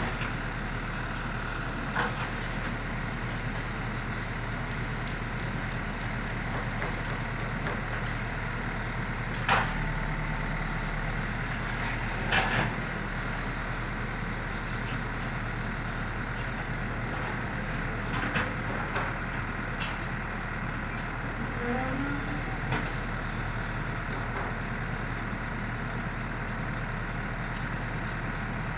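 ACE AX124 backhoe loader's diesel engine running steadily as it digs soil, with a few short sharp knocks, the loudest about nine and twelve seconds in.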